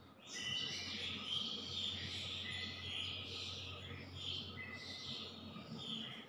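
Birds chirping, many short irregular high-pitched calls, over a steady low hum.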